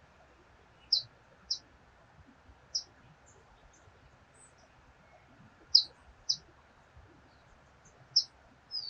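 A small bird chirping: about six short, high single chirps, spaced irregularly, over a faint steady hiss.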